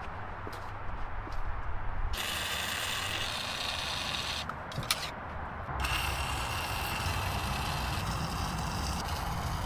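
Hand ratchet wrench clicking rapidly as bolts are turned on the car. It starts about two seconds in, stops briefly around halfway, then resumes.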